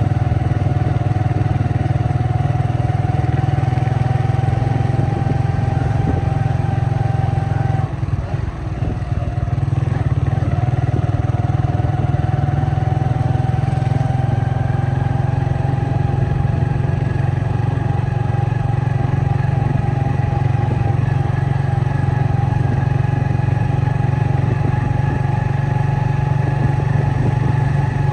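Vehicle engine running steadily with a heavy low rumble. Its note dips briefly about eight seconds in, then climbs slowly.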